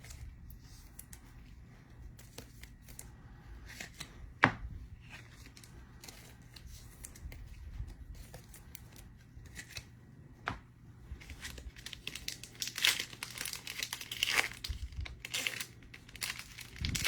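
Trading-card pack wrappers being handled, crinkled and torn open, with scattered small clicks and one sharper knock about four and a half seconds in. The crinkling and tearing is busiest near the end.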